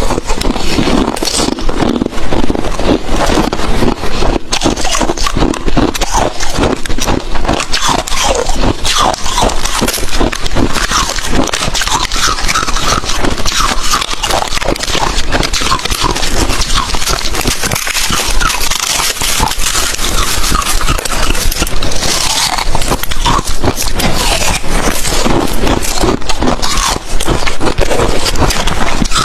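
Close-miked crunching of hard crushed ice being bitten and chewed, a dense, continuous run of crisp crunches and cracks.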